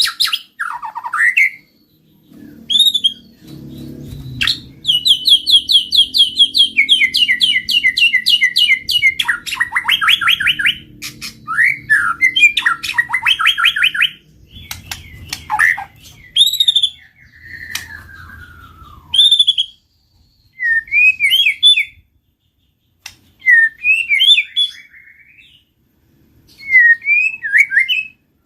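White-rumped shama singing: loud whistled phrases and fast rattling trills, a long falling whistle, then short phrases separated by pauses. A faint low rumble runs beneath the first two-thirds.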